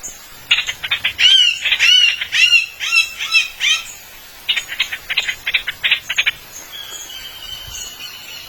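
A small bird chirping: quick sharp chirps, then a string of arched, whistled notes, then another fast run of chirps that ends about six seconds in, leaving a faint thin high note.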